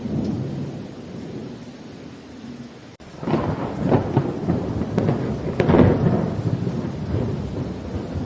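Thunderstorm with steady rain: distant thunder rumbles, then about three seconds in a close thunderclap breaks into several crackling peals before rolling off into a low rumble.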